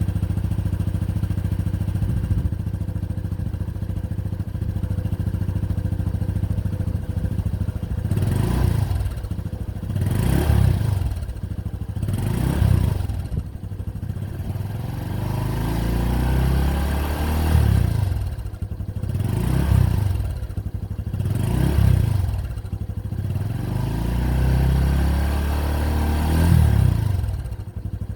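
Exhaust of a stock Honda Cross Cub JA45's single-cylinder four-stroke engine, heard through its standard muffler. It idles evenly, then from about eight seconds in is revved again and again in short throttle blips, each rising and falling back.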